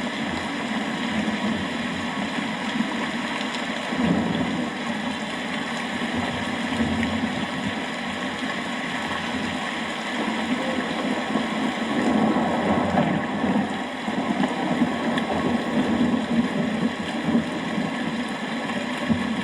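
Steady rain with low thunder rumbling underneath, the rumble swelling about four seconds in and again through the second half.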